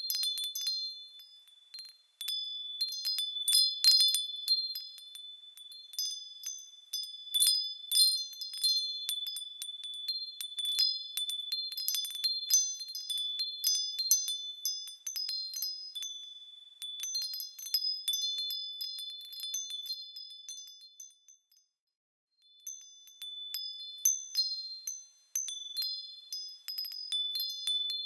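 Small metal bells tinkling as they are swung, a high ringing with many light overlapping strikes; the ringing dies away briefly twice before it starts again.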